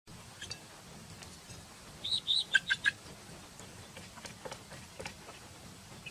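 Animal chirps: a quick run of about five short, high chirps about two seconds in, followed by a few fainter ticks.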